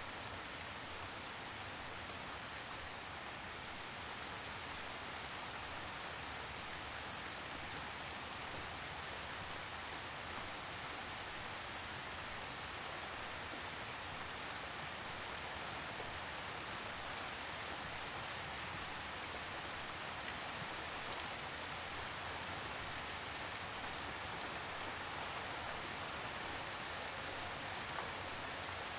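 Steady, gentle rain falling on a surface, a soft even hiss dotted with faint individual drop ticks.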